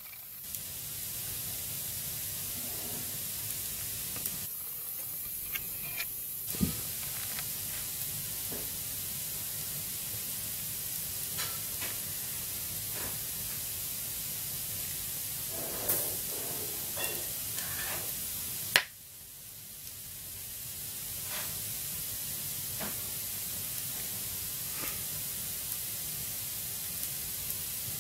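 Dry firewood burning in a fireplace: a steady hiss with scattered crackles and pops, and one loud sharp pop a little over two-thirds of the way through.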